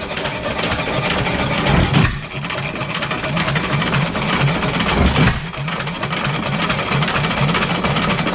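7 HP Stickney hit-and-miss engine running at about 300 RPM, with a steady beat of about five strokes a second as the flywheels coast, and a sharp firing stroke about every three seconds, twice in all.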